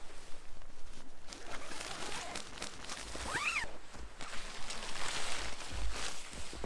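Camping gear being handled and packed: steady rustling with small knocks, and a short squeak that rises and falls in pitch about halfway through.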